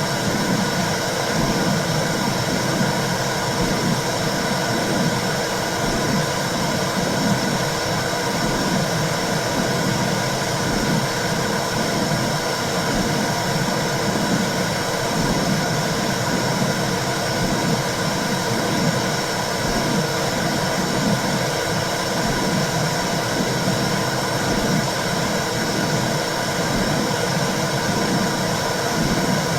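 Womb sound for soothing a baby: a steady whooshing noise with a low pulse about once a second, like blood flow and a mother's heartbeat heard from inside the womb.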